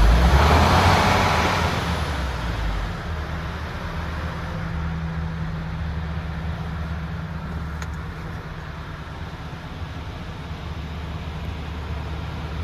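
MAN TGX 26.480's 480 bhp Euro 6 six-cylinder diesel engine running at a steady low idle. It is louder at the start and eases off over the first two seconds.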